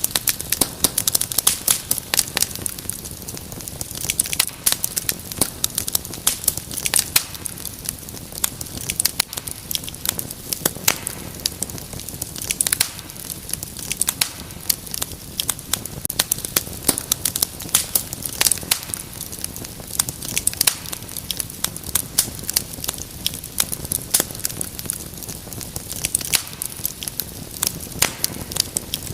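Wood fire crackling in a fireplace: many sharp, irregular pops and snaps over a soft steady hiss.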